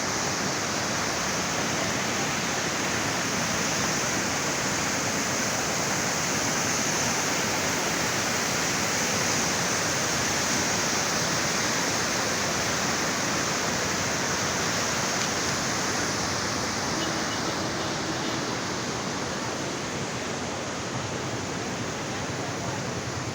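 A river in flood after a cloudburst, its high muddy water rushing in a steady, unbroken noise. The flow eases slightly in loudness near the end.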